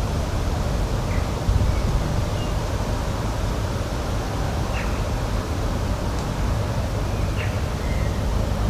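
Spring nature ambience: a steady low rushing noise, with a few short, high bird chirps scattered through it.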